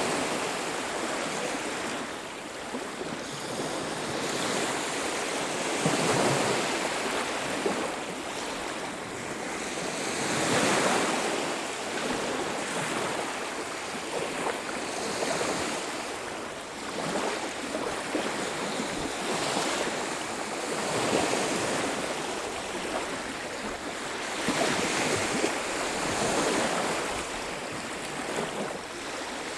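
Ocean surf on a beach: waves breaking and washing up, the rush of water swelling and fading every few seconds.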